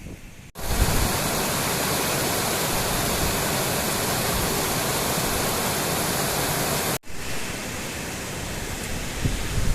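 A waterfall's water rushing over rock in a steady, even roar of noise. It starts abruptly about half a second in, cuts off sharply at about seven seconds, and continues more quietly after that.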